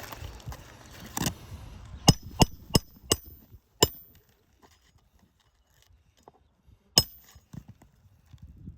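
Hammer striking roofing nails: a quick run of five sharp, ringing blows about two seconds in, then a single blow near the end. Rustling and scraping of shingles comes before the blows.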